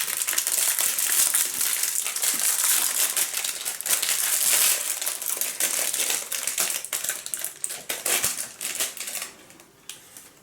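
Snack wrapper crinkling as it is handled and opened: a dense crackle that goes on for about nine seconds, then stops, leaving a few small clicks.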